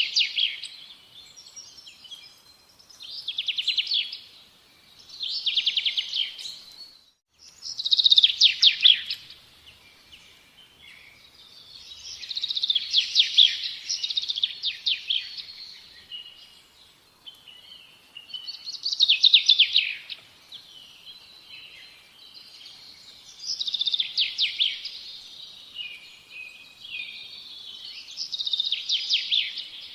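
A bird singing: repeated phrases of rapid trilled notes, each a second or two long, coming every few seconds, with a brief gap in the sound about seven seconds in.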